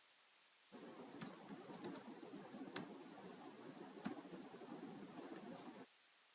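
Faint computer keyboard typing with a few sharp clicks, starting about a second in and stopping abruptly near the end.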